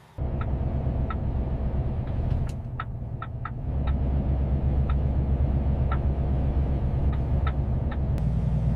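Semi-truck engine running with a steady low drone, with short high chirps scattered over it now and then.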